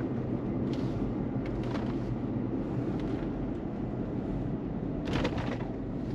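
Steady low road and engine rumble inside the cab of a moving Chevrolet Colorado ZR2 Bison pickup, with a few faint clicks and a brief rattle about five seconds in.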